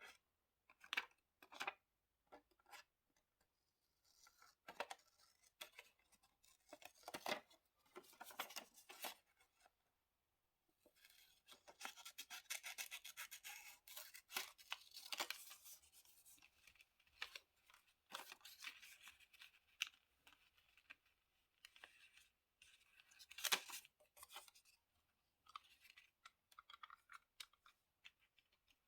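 Quiet desk-crafting sounds of diary decorating: paper and stickers handled and rubbed, with snips and tearing and small taps. There is a longer stretch of steady scratchy rubbing from about 11 to 17 s, and one sharper, louder sound about two-thirds of the way through.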